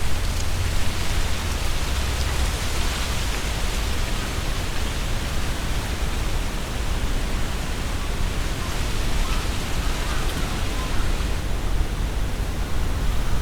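Strong wind blowing through trees, the leaves rustling in a dense, steady hiss. A low rumble of wind buffeting the microphone runs underneath, heaviest in the first few seconds.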